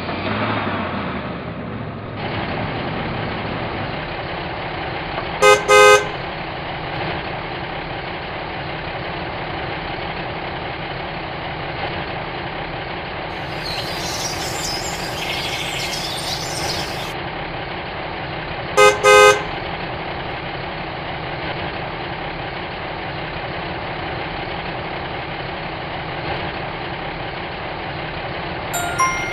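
Truck engine running steadily, with a horn giving a quick double toot about five seconds in and again about nineteen seconds in.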